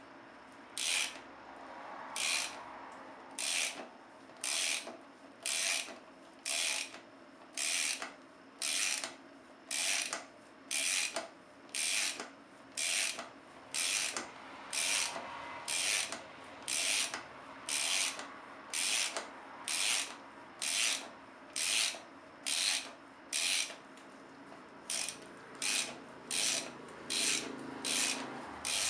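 A ratchet wrench is turning a chain breaker's forcing screw to press a rivet out of a motorcycle drive chain. Each swing gives a short burst of ratchet clicks, about once a second, in a steady rhythm.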